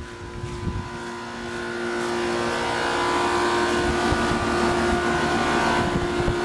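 Two 2-ton Comfortmaker central air-conditioner condensers running together, their Copeland reciprocating compressors humming steadily under the condenser fans' rushing noise. The sound gets louder over the first three seconds, then holds steady. The units are under a high heat load.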